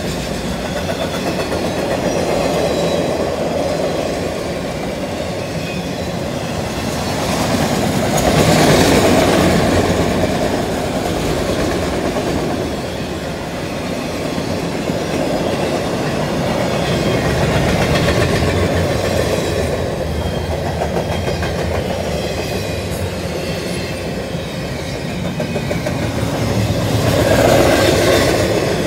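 Freight train's autorack and double-stack container cars rolling past close by: a steady rumble and clatter of steel wheels on the rails, swelling louder about eight seconds in and again near the end.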